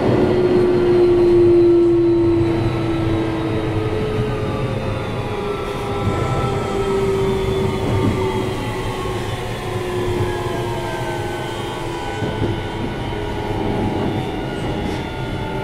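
Keio 7000-series electric train car running, heard from inside the car: a steady rumble of wheels on rail under several whining tones that slowly fall in pitch.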